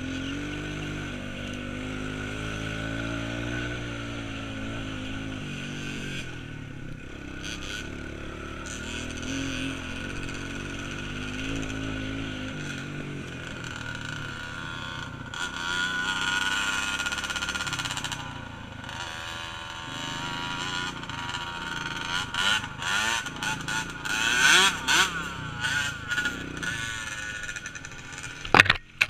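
Small off-road vehicle engine running and revving, its pitch rising and falling as the throttle changes. It gets louder and more uneven in the last few seconds.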